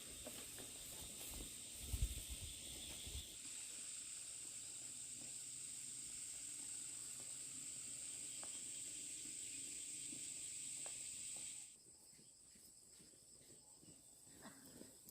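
Insects shrilling in a steady high-pitched chorus that cuts off abruptly about twelve seconds in, with a few low thuds about two seconds in.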